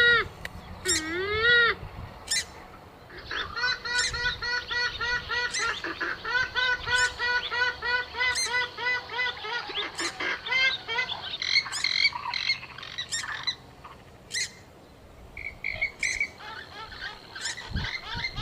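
Swamphen (mandar biru) calls used as a hunting lure: a loud wavering call at the start, then a long run of short repeated notes, several a second, thinning out and picking up again near the end.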